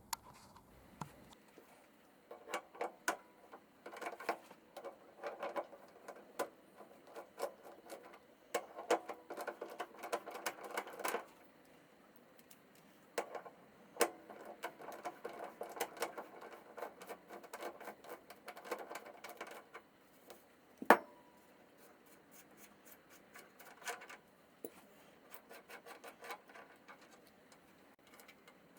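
Rapid clicking and light metallic rattling of hand tools and small fittings being worked, in two long spells with a short pause between, then one sharp knock and a few scattered clicks.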